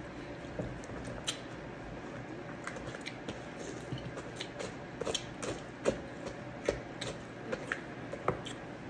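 Someone eating milk-soaked cereal: wet chewing and soft mouth sounds, with scattered small clicks at an uneven pace.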